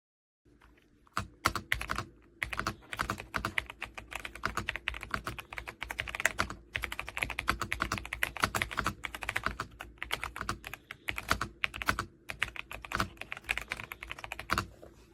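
Fast, continuous typing on an RK Royal Kludge S98 mechanical keyboard with pale green tactile switches and PBT keycaps: a dense run of keystroke clicks, broken by two brief pauses.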